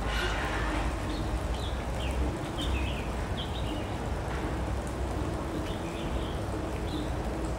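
Small birds chirping in short, high, scattered calls over a steady low rumble of outdoor ambience.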